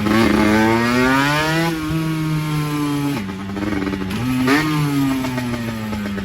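50cc motorcycle engine revving under way: the pitch climbs as it accelerates, holds, drops about three seconds in, climbs again briefly, then slowly falls away.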